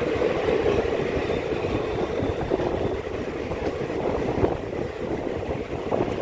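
Indian Railways passenger train coach running on the rails as it pulls out of a station: a steady rumble of wheels on track with a few sharp clacks, heard close up from the moving coach.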